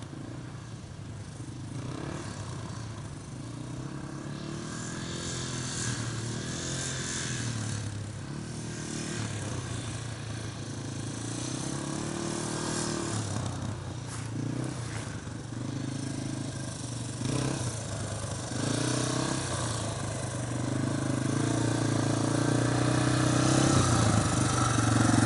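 Yamaha TT-R230 dirt bike's single-cylinder four-stroke engine running as it is ridden, its pitch rising and falling with the throttle. It grows louder over the last several seconds.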